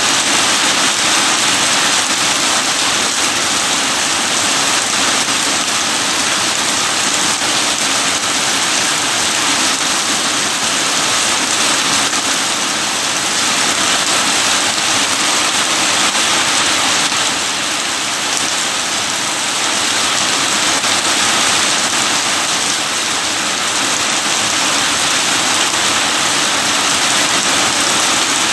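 Steady heavy rain falling, a dense even hiss with no separate drops standing out.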